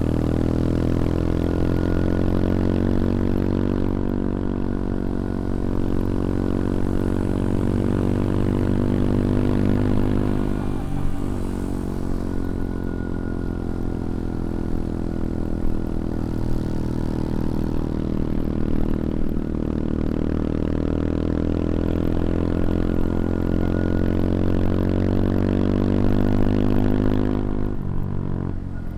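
CFMoto Papio XO-1 motorcycle engine and exhaust pulling under throttle while riding, its pitch climbing steadily. The engine note breaks and drops briefly about eleven seconds in and again near the end, then climbs again.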